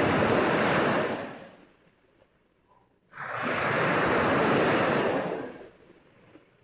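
Mediterranean Sea waves washing in twice. The first fades out about a second and a half in; the next rises sharply about three seconds in and dies away near the end.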